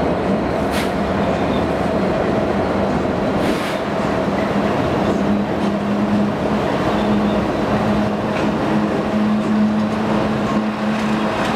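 Railroad locomotives running, a loud steady drone that holds one low pitch throughout, with a couple of brief sharp clicks.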